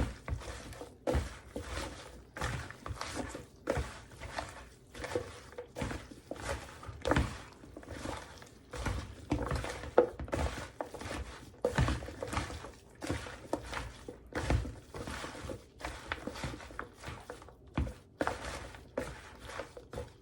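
Hands mixing seasoned chicken pieces with cut potato and carrot in a bowl, making an irregular run of soft thuds and knocks, a few a second.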